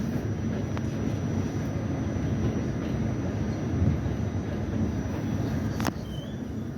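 R68 subway train running on the track, a steady low rumble of wheels on rails with a few sharp clicks and a faint steady high whine.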